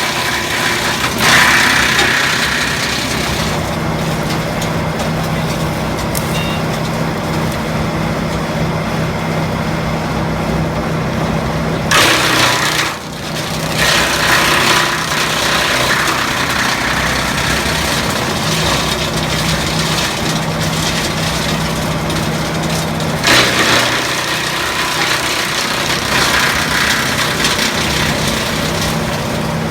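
Tractor engine running steadily, driving a Demarol R10 branch chipper, with loud bursts of noise three times, about ten seconds apart, as the chipper takes branches.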